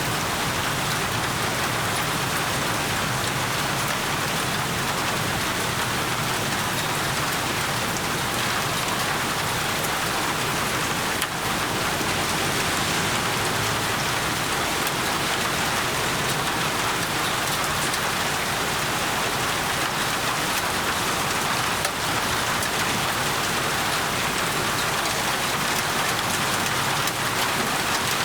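Steady heavy rain falling and pattering on surfaces, an even hiss with no let-up.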